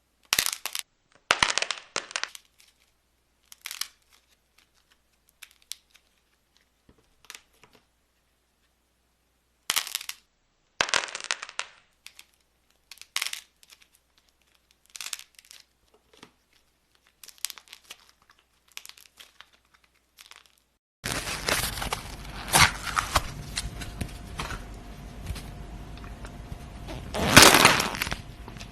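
Crunchy slime being squeezed and pressed, giving short bursts of crackling and crunching with pauses between them. About two-thirds of the way in a steady background hiss comes in under the crackles, and the loudest crunch comes near the end.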